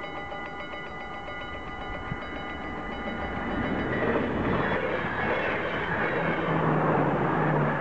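Mechanical level-crossing bells ringing rapidly. From about three and a half seconds in, an NS ICMm (Koploper) intercity electric train passes the crossing, and its growing running noise becomes loud and covers the bells, with a low hum near the end.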